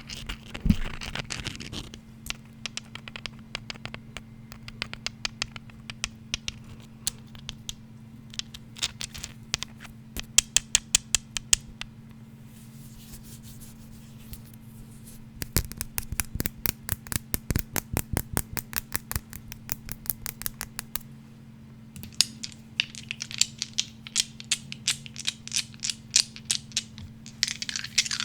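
Fast tapping and scratching on small unseen objects: runs of quick, sharp taps, several a second, with scratchy noise between some of them, over a steady low hum.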